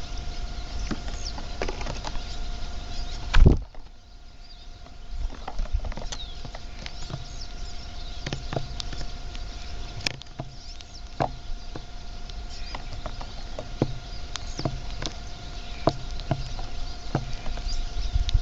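Backyard birds chirping in short, scattered calls over a low rumble and a steady hum, with one loud thump about three and a half seconds in.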